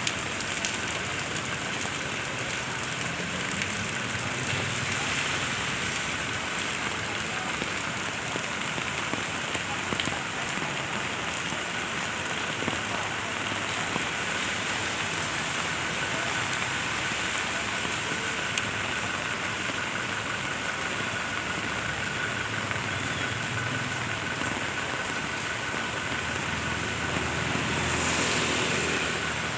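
Steady rain falling, a little louder near the end.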